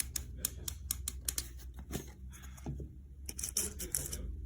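Rapid light clicks and taps, several a second, from hard kitchen items being handled, with a short scraping sound about three seconds in.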